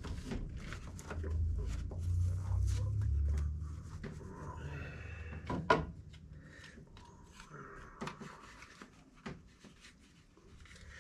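Handling noises in a small room: a low rumble for the first few seconds, then scattered light clicks and one sharp knock about six seconds in, with light wooden knocks and rubbing.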